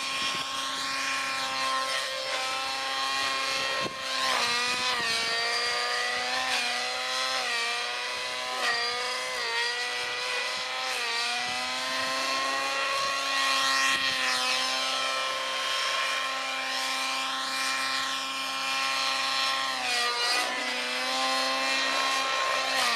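Radio-controlled model helicopter in flight, its motor and rotors giving a steady high-pitched whine. The pitch dips sharply and recovers several times as the helicopter is thrown through manoeuvres, about four seconds in, again around nine and eleven seconds, and near the end.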